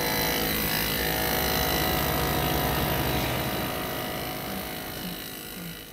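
Motorcycle engine running at a steady pitch with wind noise, fading out over the last two seconds.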